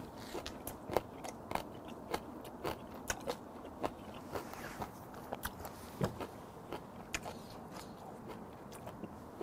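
A person chewing a mouthful of food with the mouth closed, close to a clip-on microphone: soft wet clicks and smacks, irregular, a few each second.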